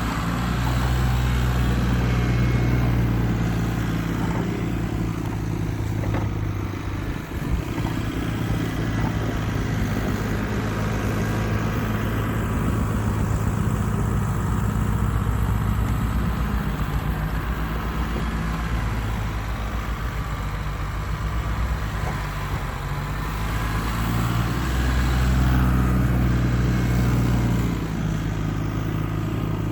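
Engine of a snow-clearing machine running steadily as it plows snow, its low drone swelling louder at the start and again near the end as the load or throttle changes.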